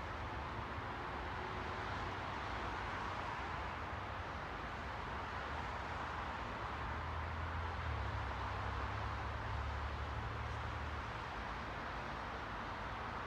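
Steady hiss-like ambient noise, with a low rumble that swells from about six seconds in and fades by eleven.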